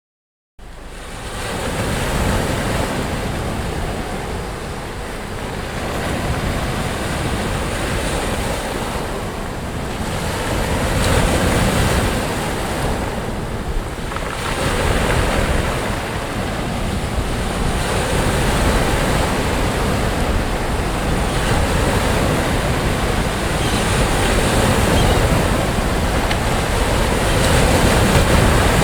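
Sea waves breaking and washing on the shore in a steady wash of surf that swells and eases, with wind rumbling on the microphone. It starts abruptly from silence about half a second in.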